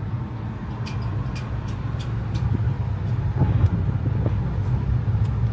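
Road noise inside a moving car: a steady low rumble of engine and tyres, with a few faint ticks in the first couple of seconds.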